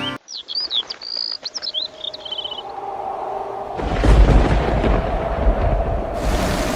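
Small birds chirping in quick, rising and falling calls for the first two or three seconds. A deep rumble then starts about four seconds in and becomes the loudest sound. Near the end a steady hiss sets in, like rain.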